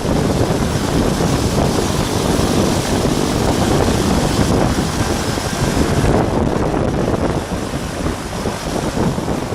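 Steady roar of a Beechcraft King Air jump plane's turboprop engines and propellers, with wind buffeting the microphone.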